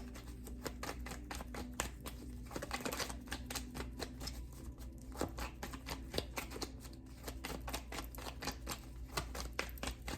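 A tarot deck being shuffled by hand: a dense, irregular run of soft card clicks and flicks, many a second.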